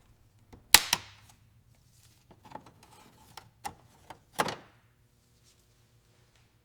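A series of sharp knocks and clunks, the loudest two in quick succession just under a second in and another loud one a little past the middle, over a faint low hum.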